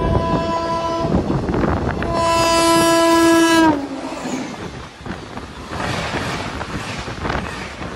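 Oncoming train's horn sounding twice, a short blast and then a longer, louder one whose pitch drops just as the locomotive passes. It is followed by the rushing rumble and clatter of its coaches going past on the next track, heard from the open door of a moving train.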